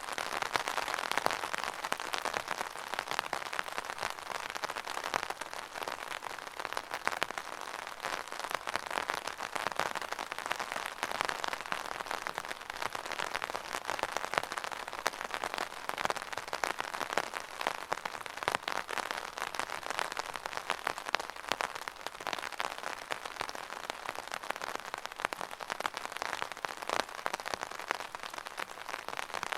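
Steady rain falling on a hard surface, a dense even patter of many drops with frequent sharper individual hits.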